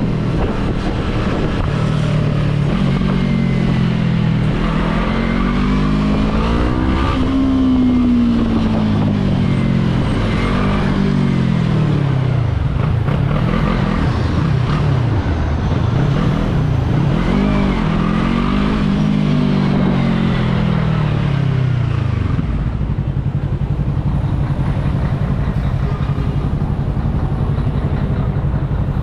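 Yamaha R3's parallel-twin engine revving up and down repeatedly, its pitch rising and falling in long sweeps, then settling to a steady lower note about three-quarters of the way through.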